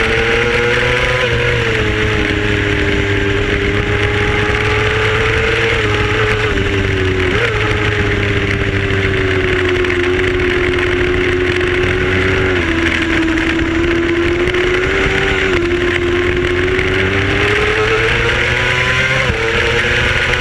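Racing motorcycle's engine held at high revs, with a dense rushing noise over it. The pitch dips slightly a few times and climbs again near the end.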